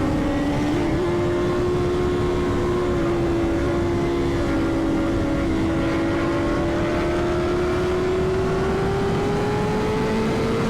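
Sport bike's inline-four engine running at high revs and high speed under a heavy rush of wind. The engine note holds steady, then rises slowly through the second half as the bike keeps accelerating in a high gear.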